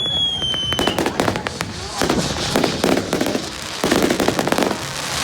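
Fireworks going off: a run of bangs and dense crackling, with a single falling whistle that dies away about a second in.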